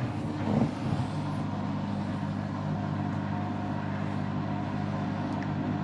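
Candy washing machine's drain pump running with a steady hum at the start of a drain-and-spin cycle, before the drum spins up.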